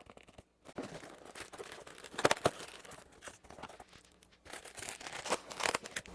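A parcel being unwrapped by hand: packaging torn and crinkled in irregular rustles and sharp rips, loudest about two seconds in and again near the end.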